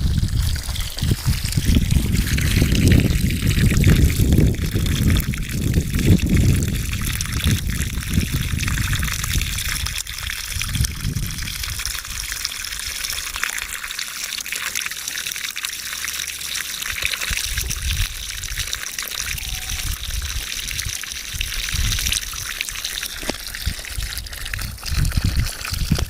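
Water running out in a steady trickling stream, plausibly draining from the water heater tank. A low rumble sits under it for the first ten seconds or so.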